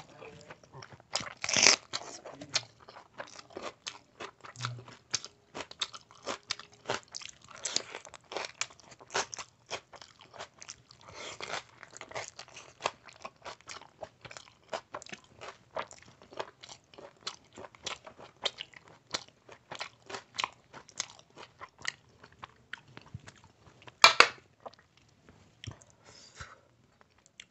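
A person chewing and biting mouthfuls of rice and mutton curry eaten by hand, close to the microphone: a steady run of wet smacks and crunchy clicks, with a louder sharp burst near the end.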